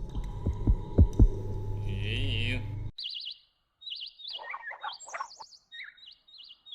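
Birds chirping: short, quick, warbled high chirps repeated again and again, with a run of lower notes near the middle. Before the chirping starts, a low hum and a few sharp thumps.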